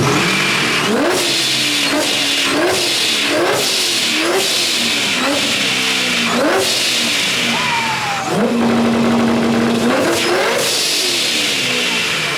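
Car engine being revved hard over and over, its pitch shooting up and dropping back about once a second. Near the middle it climbs higher, then holds a steady high note for a second or two before the revving resumes.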